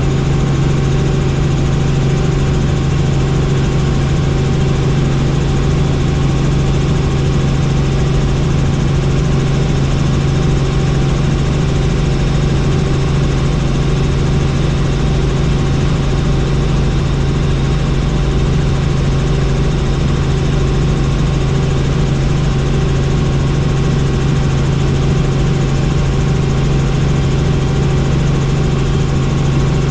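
Helicopter in flight: a steady, loud low drone of rotor and engine with a regular pulsing beat from the rotor blades.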